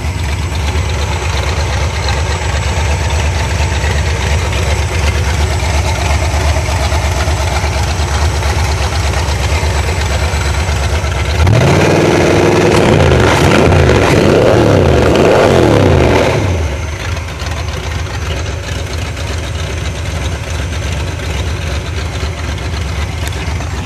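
Mustang II drag car's Ford 302 V8, bored .060 over, idling loudly, then revved hard up and down several times for about five seconds midway before dropping back to idle.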